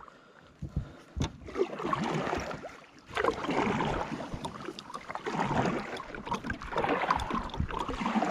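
Kayak paddling: about four paddle strokes swishing and splashing through the water, one every second and a half or so, with a couple of light knocks near the start.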